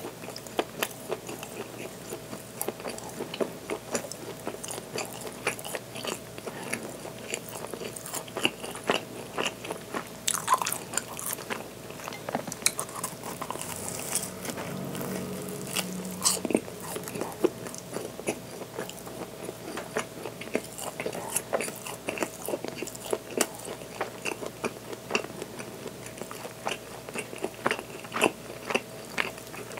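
Close-miked biting and chewing of a soft, filled bread roll: wet mouth clicks and smacks at an uneven pace, over a faint steady hum.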